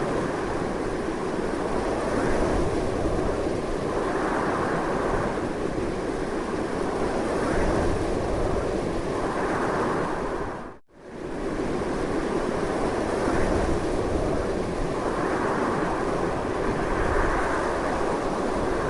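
Strong, continuous wind blowing, swelling and easing in gusts every few seconds. Just before halfway through, the sound fades out for a moment and comes straight back.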